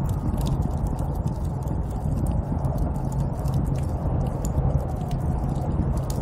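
Snowstorm wind blowing as a steady low rumble, with scattered sharp crackling clicks over it.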